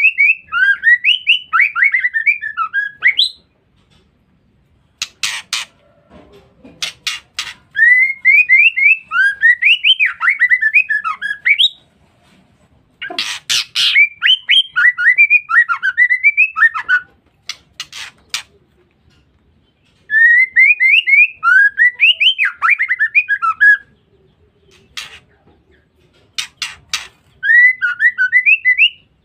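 Female white-rumped shama calling: repeated phrases of quick rising and falling chirps, each lasting three to four seconds, with a few seconds' pause between them and sharp clicks in the gaps.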